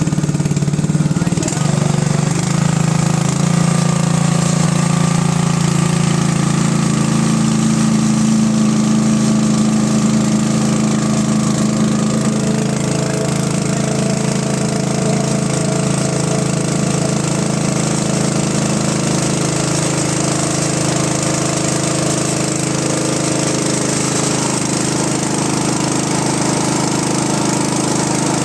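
Small single-cylinder kerosene engine of a Sonalika Gold WP30K water pump set running steadily; its pitch shifts slightly in the first few seconds, then holds even.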